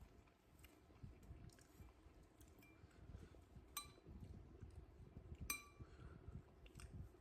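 Cutlery clinking against a dish twice, a little under two seconds apart, each a short bright ring, over faint soft handling noises of eating.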